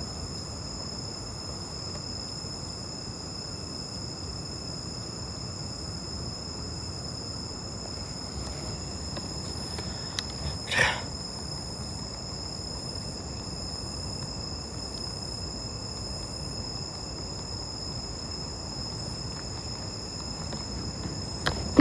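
Night insect chorus, crickets keeping up a steady high-pitched drone with low background hiss; a single brief sound stands out about eleven seconds in.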